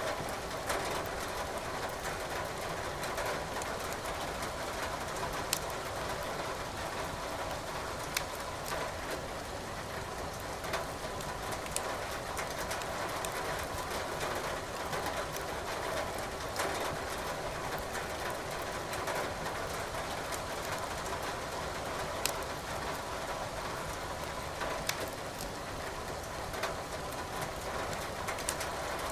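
Wood fire crackling in a fireplace, with a sharp pop every few seconds, over a steady hiss of rain.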